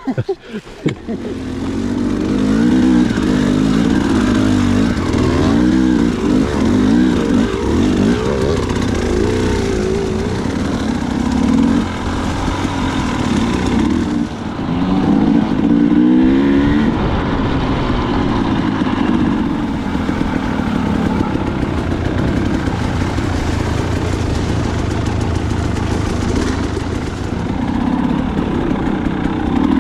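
Dirt bike engine running and being ridden, its pitch rising and falling again and again as the throttle is opened and closed, loud from about a second in.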